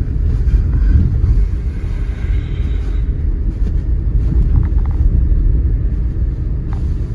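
Steady low rumble of a 4x4 car driving on snowy roads, engine and tyre noise heard from inside the cabin.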